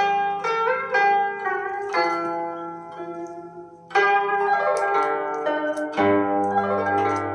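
Chinese zither music played back through a tube-amplified horn loudspeaker system: plucked notes, some bent in pitch, fade to a lull, then a sudden sweeping run of notes about four seconds in, with deep bass notes joining about six seconds in.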